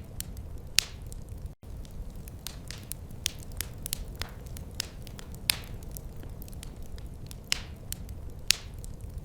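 Wood fire crackling: irregular sharp pops and snaps, a few of them louder, over a steady low rumble of the burning fire. The sound cuts out for an instant about a second and a half in.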